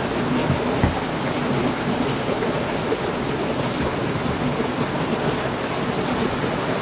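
Heavy rain falling steadily in a dense, even hiss, with one brief low thump about a second in.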